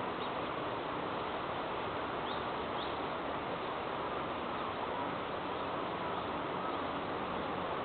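Steady hiss with a few faint, short bird chirps over it, most of them in the first three seconds.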